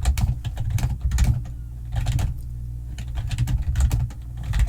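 Typing on a computer keyboard: quick bursts of keystrokes separated by short pauses.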